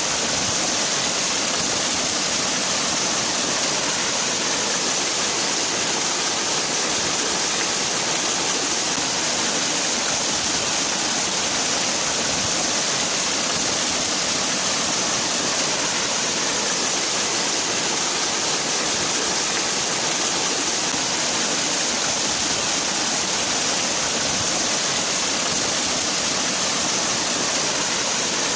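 Waterfall: water falling and splashing in a steady, unbroken rush, with a strong hiss in the upper range.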